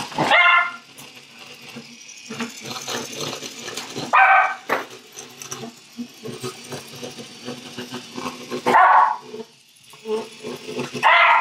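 A dog barking four times, a few seconds apart, each one a single short bark. Softer clicking and rustling fill the gaps between the barks.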